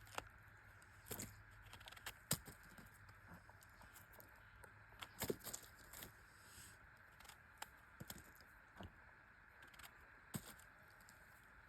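Sparse, irregular crackles and snaps of dry forest-floor litter such as twigs and leaves, over a faint steady hiss.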